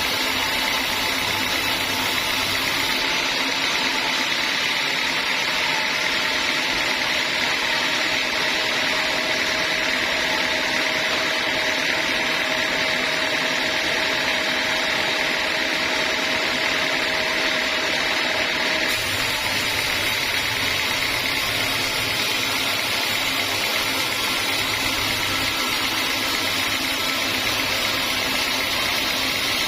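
Band sawmill running steadily, its blade cutting through a teak log with a continuous hissing whine.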